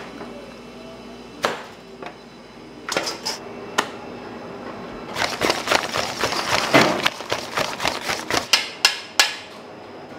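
Sharp knocks and clatters of kitchen utensils on hard surfaces. A few single knocks come first, then a rapid, irregular run of tapping lasts about three seconds, followed by two louder knocks.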